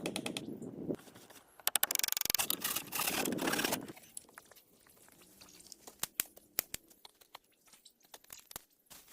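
Rustling and crunching, with a dense burst of rapid crackling from about two to four seconds in, then scattered light clicks and taps.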